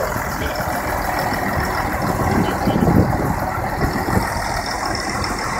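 Large John Deere pivot-steer tractor's diesel engine running, a steady heavy rumble that swells briefly about halfway through.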